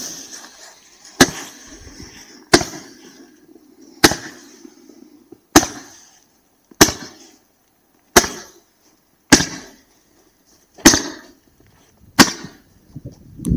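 Roman candle firing: nine sharp pops at steady intervals of about one and a half seconds, each shot launching a star, with a hiss of burning composition between shots.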